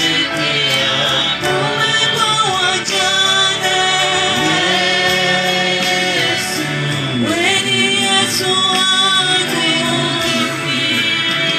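Gospel worship song: voices singing a melody over steady instrumental accompaniment.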